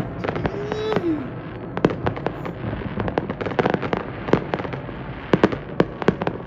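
Fireworks going off in a dense, irregular string of bangs and sharp pops, several a second, over a continuous crackle.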